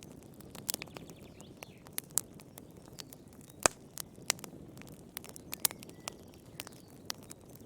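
Wood fire in a fireplace crackling: irregular sharp pops and snaps over a low, steady rush of flames, with one louder pop about halfway through.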